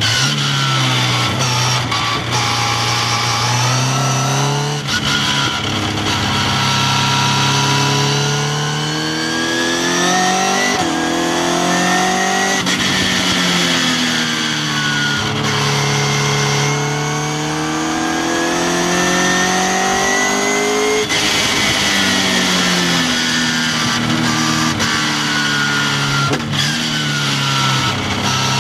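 Westfield sports car's engine at full throttle on track, heard from on board the open car: the note climbs repeatedly as it accelerates, with short breaks at gear changes, and drops away under braking a few times before climbing again.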